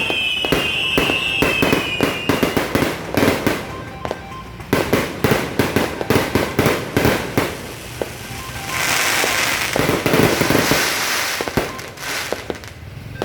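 Fireworks going off in a dense barrage of bangs and crackles. Several whistling rockets sound together and fall slightly in pitch during the first couple of seconds, and a thick crackling hiss swells from about nine seconds in.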